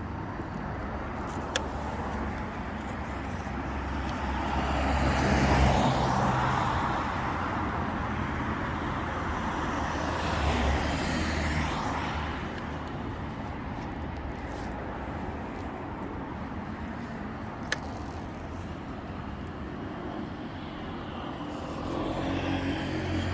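Street traffic going by, with cars passing twice, about five and ten seconds in, the first the louder. Two brief sharp clicks stand out over the steady road noise.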